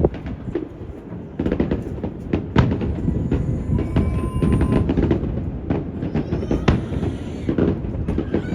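Fireworks bursting overhead, a series of sharp bangs a second or more apart, over heavy wind rumble on the phone's microphone.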